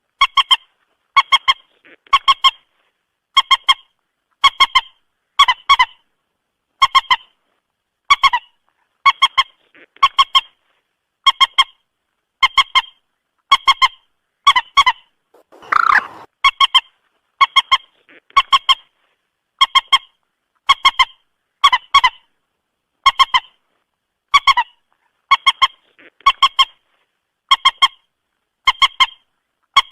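Moorhen calling: short, sharp notes in clusters of two or three, repeated about once a second, with one longer, harsher call about halfway through.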